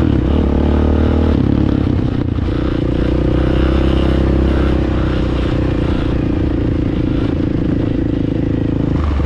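Dirt bike engine idling steadily, its note shifting slightly about a second and a half in.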